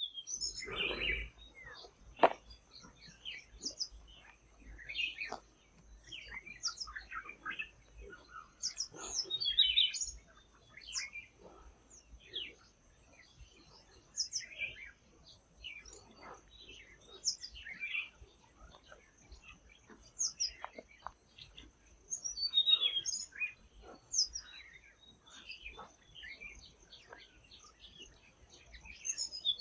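Forest birdsong featuring a Tickell's blue flycatcher: short high chirps and trills come in bursts every few seconds, some overlapping as if from more than one bird. A few sharp clicks are scattered among them, over a faint steady high tone.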